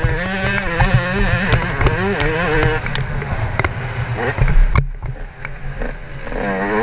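Yamaha YZ125 two-stroke engine being ridden, its pitch rising and falling as the rider works the throttle, with scattered knocks. There is a short break in the engine sound just under five seconds in.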